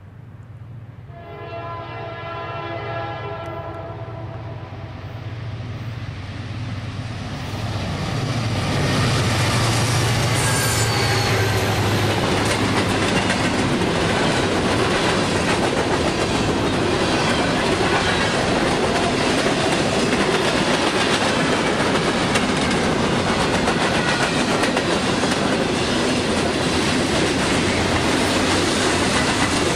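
Freight train passing close by. Its horn sounds one steady chord for about three seconds, starting about a second in. The diesel locomotives' engine rumble then builds, loudest around ten seconds in, and gives way to a steady clatter of hopper cars, boxcars and tank cars rolling past.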